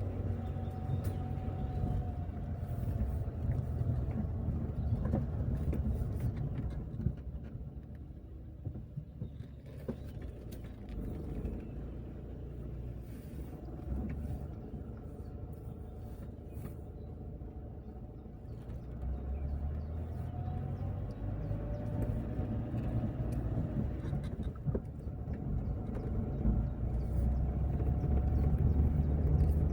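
Car driving, with a steady low rumble from the engine and tyres that eases off for a while in the middle and builds again later.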